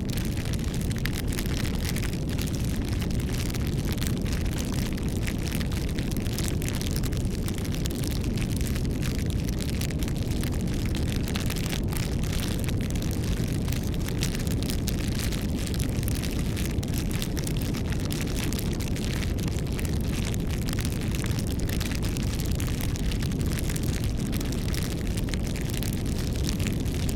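Campfire burning, with frequent small crackles and pops over a steady low rumble.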